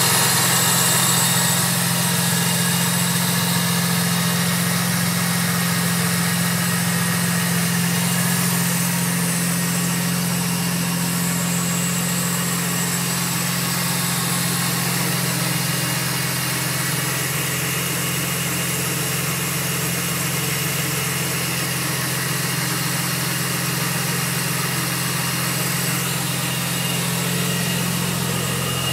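BMW Z4 M's supercharged S54 inline-six, fitted with an ESS VT2-500 kit, idling steadily during its cold-start warm-up, heard close up from the engine bay.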